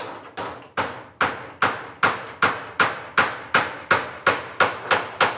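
Hammer driving a nail with quick, evenly spaced blows, about two and a half a second, the blows growing louder over the first second or so.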